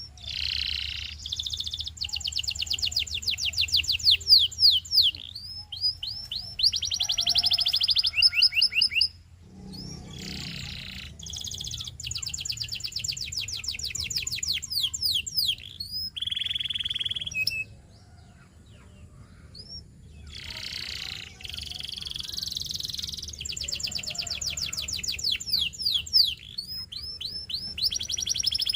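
Domestic canary singing: long phrases of fast trills and rolls of rapidly repeated high notes, broken by short pauses about nine seconds in and again past the middle.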